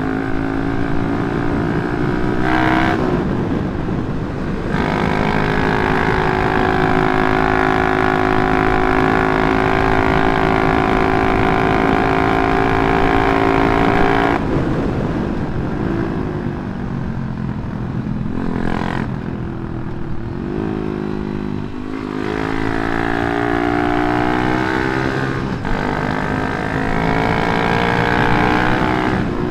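Yamaha Jupiter MX motorcycle engine, bored to 177cc, running through a CLD C7 aftermarket exhaust while being ridden. The engine note drops briefly about three seconds in, holds steady for a long stretch, falls away about halfway through, then climbs again as the rider accelerates near the end.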